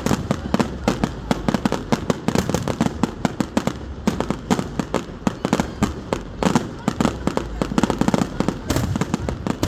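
Fireworks display going off: a rapid, irregular run of sharp bangs and crackles over a low rumble.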